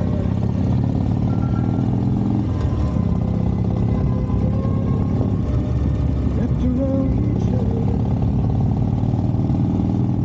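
Harley-Davidson motorcycle's V-twin engine running steadily under way, a loud, even low rumble.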